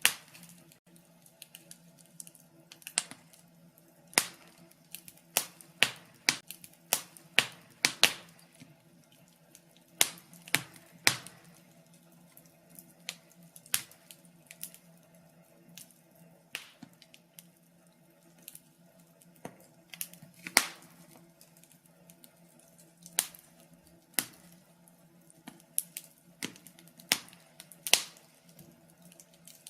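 Wood fire crackling in a fireplace: irregular sharp pops and snaps, some coming in quick clusters, over a faint steady low hum.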